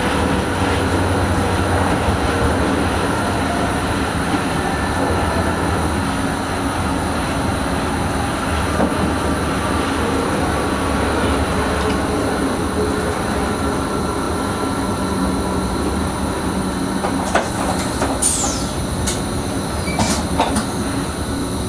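NS Sprinter electric multiple unit running along the line, heard from the driver's cab: a steady rumble of wheels on rails. Near the end there are a few sharp clicks and a short high squeal.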